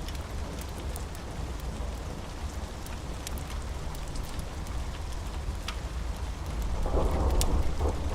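Steady rain with a low rumble underneath, dotted with the small pops and crackles of a wood fire. About seven seconds in, a roll of thunder swells up.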